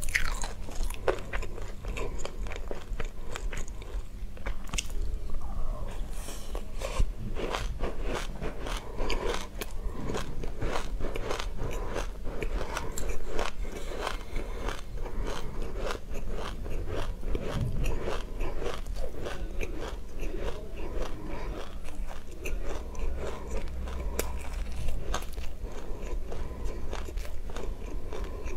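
Close-up chewing of mouthfuls of raw black and white sesame seeds: a dense, steady crackle of tiny crunches.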